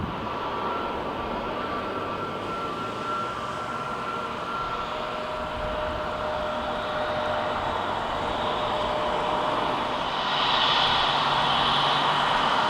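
Jet airliner engines running with a steady whine over a rushing noise, growing louder about ten seconds in.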